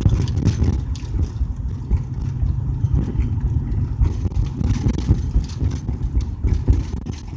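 Car driving on the road, heard from inside the cabin: a steady low engine and road rumble with occasional small knocks and bumps.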